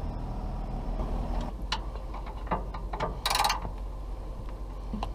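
Hand tools at work on metal parts: a few sharp clicks and clinks, then one louder, harsher snip or clatter lasting about half a second just after three seconds in, over a steady low hum.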